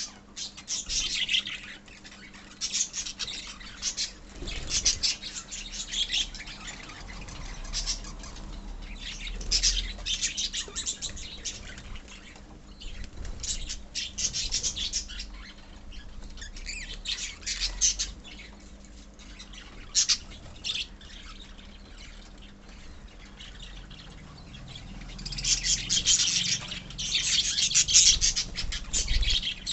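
A colony of lovebirds chattering and squawking in repeated shrill bursts, busiest and loudest near the end.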